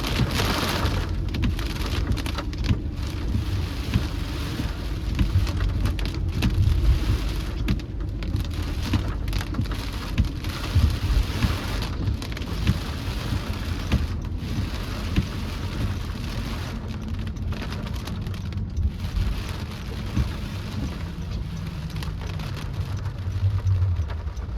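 Steady heavy rain pattering, with many individual drop hits, over a constant low rumble.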